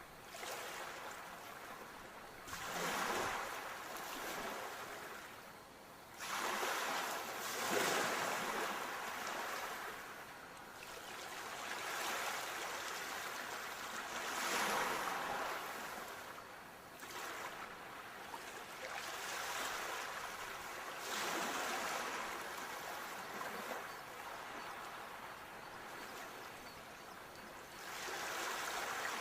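Ocean waves breaking and washing ashore: surges of rushing surf that swell and die away every several seconds.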